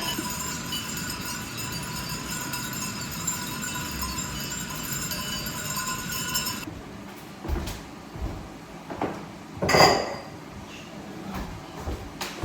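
Steady high tones until about seven seconds in, where they cut off; then a handful of separate knocks and clinks, the loudest a ringing clink about ten seconds in.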